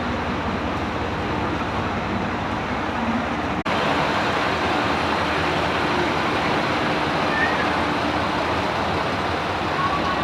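Steady running noise of a train at a station platform, with faint low hum. The sound cuts out for an instant about three and a half seconds in.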